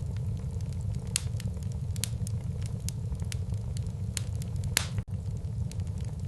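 Wood fire burning in a fireplace: irregular sharp crackles and pops over a steady low rumble, with one louder pop about three-quarters of the way through, followed by a split-second dropout in the sound.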